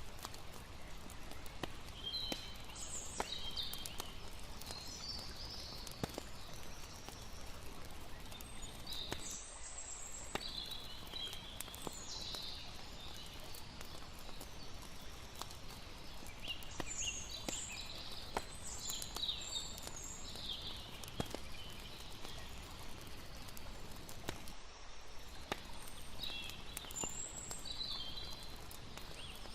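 Layered night ambience: a steady wash of river water under scattered sharp crackles and pops of a campfire, with bursts of high chirping from night creatures coming and going.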